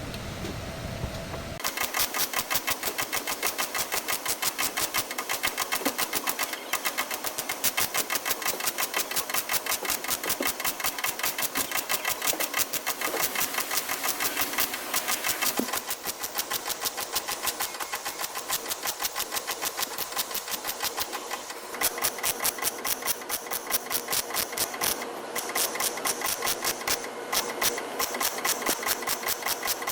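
A power tool working with a fast, even rattle of sharp strokes, many per second, that sets in about a second and a half in.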